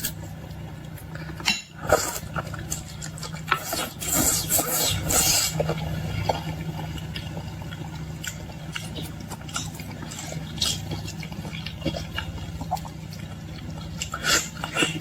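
Close-up eating of boiled shrimp: shells cracking and being peeled, with wet squishing and chewing. A denser stretch of crackling comes about four to five and a half seconds in, over a steady low hum.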